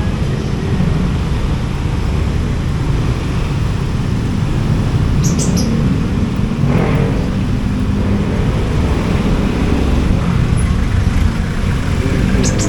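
Steady low rumble of road traffic and vehicle engines, with a few brief high clicks.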